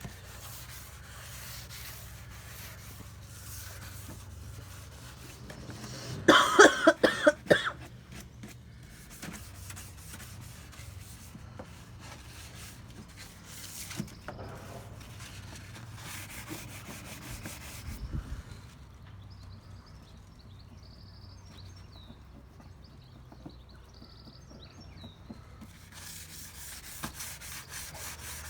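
Wet-and-dry sandpaper being rubbed back and forth over a car's rear bumper in quick scraping strokes. The strokes pause in the middle and start again near the end. A loud short burst about six seconds in is the loudest sound.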